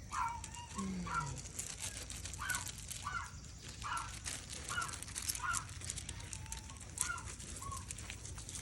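An animal calling again and again in short high notes, about one every half second, with one short low falling sound about a second in and faint clicks throughout.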